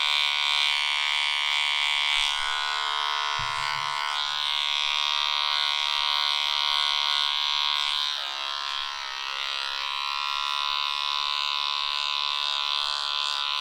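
Small electric dog-grooming clippers running with a steady high buzz as they trim a dog's fur. The pitch wavers and the level dips briefly about eight seconds in, and there is a faint thump early on.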